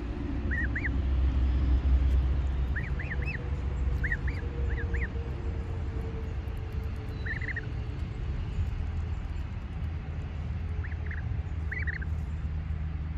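Birds chirping in short groups of two or three high notes, on and off, over a steady low rumble.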